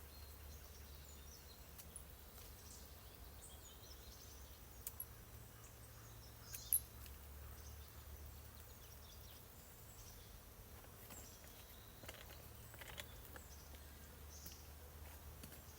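Faint rural ambience: scattered small bird chirps over a low steady hum, with a few short clicks, the loudest about seven seconds in.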